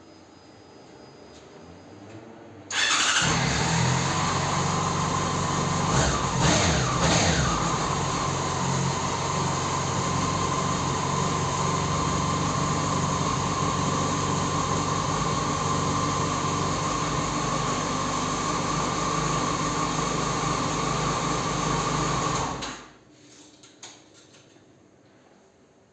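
Yamaha Fazer 600's inline-four engine, breathing through a LeoVince SBK aftermarket exhaust, starts about three seconds in. It is blipped twice, rising and falling in pitch, then settles into a steady idle. It is switched off a few seconds before the end.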